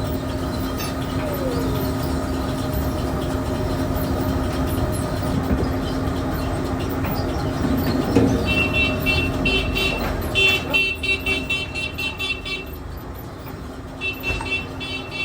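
Steady hum of running machinery, then from about halfway a rapid string of short, high-pitched electronic beeps in two runs, the beeps the loudest thing heard.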